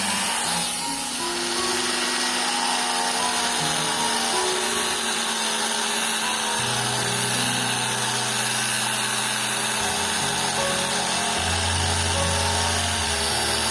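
Electric power tool running steadily while grinding agate stone, with background music of slowly changing held notes underneath.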